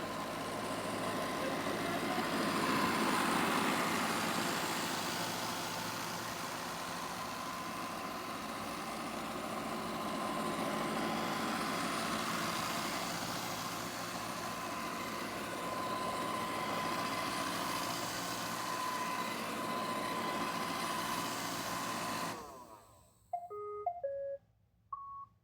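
iRobot Roomba robot vacuum running a spot clean: a steady whir of its vacuum motor and brushes with a constant whine. About 22 seconds in it shuts off abruptly, followed by a short run of electronic tones, the sign that the spot-clean cycle has finished.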